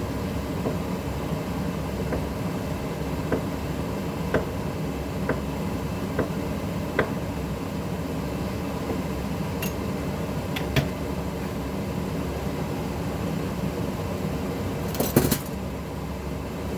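Kitchen cooking sounds: a steady low hum under light, separate taps of a utensil on cookware about once a second, with a short clatter of dishes near the end.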